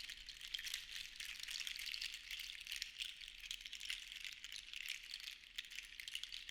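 Seashells shaken together, a continuous dense patter of small clicks that swells and eases gently.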